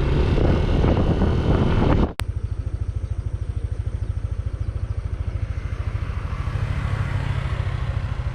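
Wind and road rush while riding a motorcycle, then a sudden cut about two seconds in to a Yamaha NMAX 155 scooter's single-cylinder engine idling with a rapid, even pulse.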